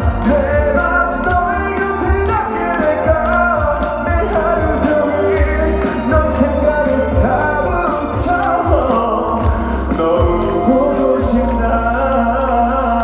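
A male singer singing live into a microphone over an amplified band backing with bass and a steady drum beat.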